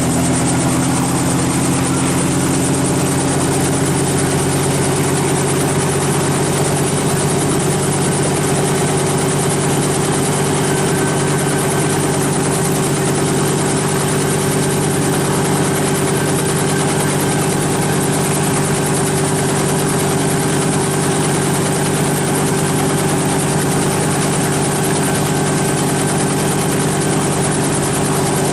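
Helicopter running, heard as a loud, steady hum of engine and rotor with several low droning tones over a rushing noise. One of the tones shifts slightly in pitch in the first few seconds, then everything holds steady.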